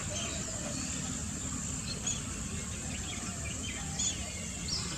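Outdoor ambience: a steady high insect drone with scattered short bird chirps, a few coming around the middle and near the end, over a low background rumble.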